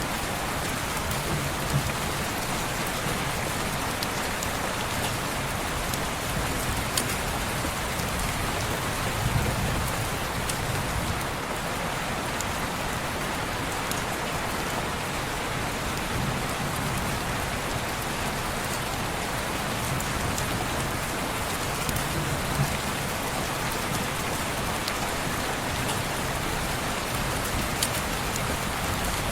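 Steady rain on window glass: an even hiss with scattered sharp ticks.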